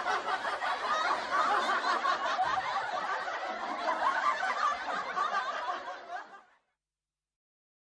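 A crowd laughing, many voices at once, fading out quickly to dead silence about six and a half seconds in.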